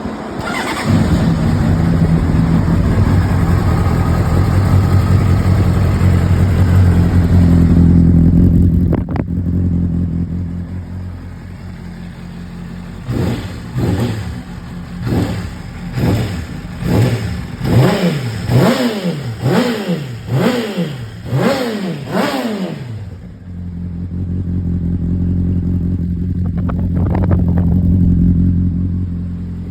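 A 2003–2006 Honda CBR600RR inline-four engine runs steadily, drops to a quieter idle about a third of the way in, and is then blipped about ten times, roughly once a second, each rev rising and falling back, before it settles to a steady run. It runs without ticking or knocking.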